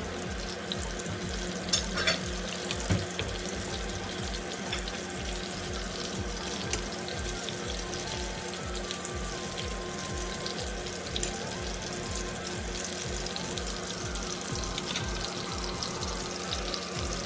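Breaded chicken tenders sizzling and crackling steadily as they shallow-fry in hot oil, with a few sharp clicks of metal tongs against the pan about two seconds in. Background music with a steady beat runs underneath.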